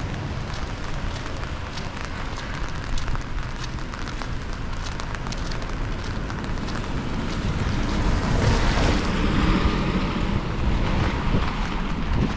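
Rain falling, with many small drop ticks over a steady hiss, and wind buffeting the microphone; the rumble swells a little about eight seconds in.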